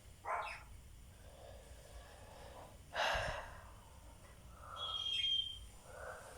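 Pet budgerigars making short, harsh chirps: a brief call just after the start, a louder one about three seconds in, and a short high whistled note around five seconds.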